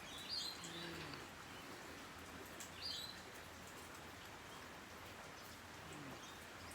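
Two short, faint, high bird chirps, about three seconds apart, over a steady background hiss.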